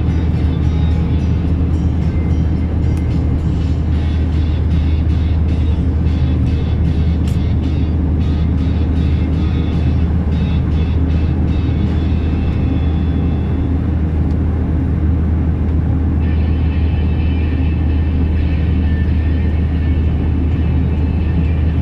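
DAF 460 automatic truck's diesel engine running under a 33.5-tonne load of stone, heard from inside the cab as a steady low drone, with scattered clicks and rattles through the first half.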